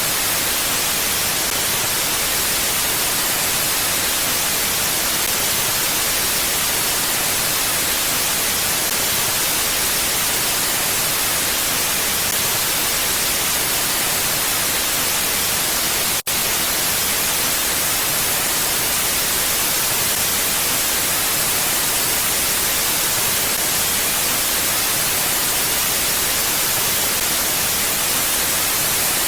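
Steady, even hiss like white noise, with no gusts or swells and most of its energy in the high end. It cuts out for an instant about sixteen seconds in.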